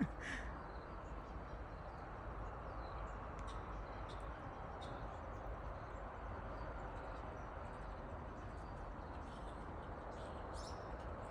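Outdoor background: a steady low hiss and rumble with faint, scattered bird chirps.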